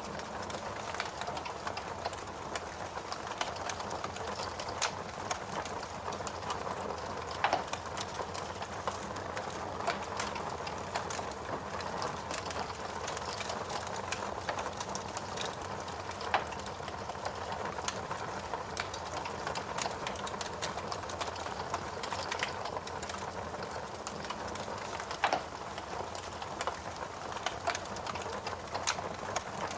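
Wood fire burning in a fireplace: a steady hiss with dense, irregular crackling and three louder pops spread through.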